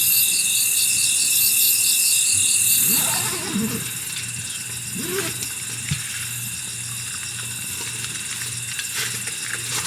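A chorus of summer cicadas buzzing in even, high-pitched pulses, dropping off about three seconds in. After that come a couple of short, low, sliding sounds, then quieter outdoor background.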